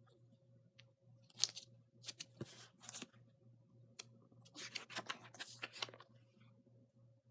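Paper rustling as the pages of a picture book are handled and turned, a few brief swishes and scrapes with a small click among them.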